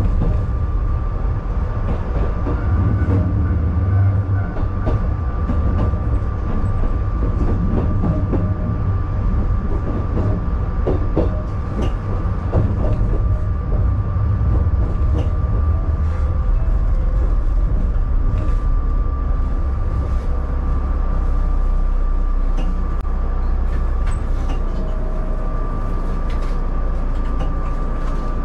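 762 mm narrow-gauge electric train running, heard from the driver's cab: a steady low rumble with scattered wheel clicks over the rail joints and a steady high tone. The rumble eases as the train slows into a station, and the train is standing still near the end.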